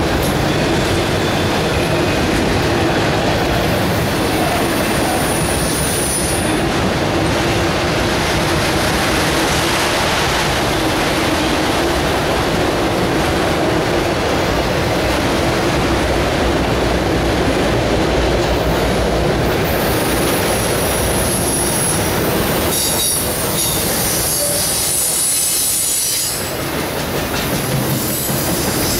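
Autorack freight cars of a CSX train rolling steadily past on the rails, their wheels running over the track. A high-pitched wheel squeal rises over the noise about six seconds in and again from about twenty seconds in.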